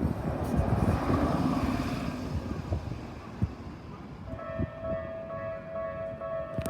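Train rumbling past with scattered clicks from the wheels. About four seconds in, a Japanese level crossing warning bell starts ringing with a steady electronic tone.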